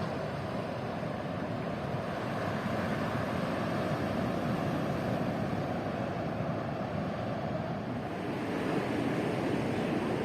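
Steady outdoor noise of surf with wind on the microphone, swelling slightly a few seconds in and again near the end.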